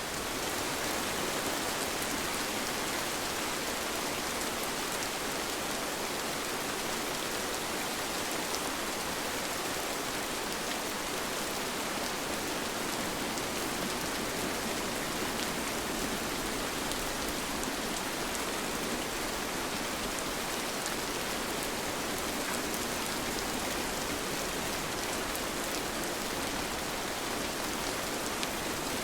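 Steady rain falling: an even hiss with scattered drops ticking, unchanging throughout.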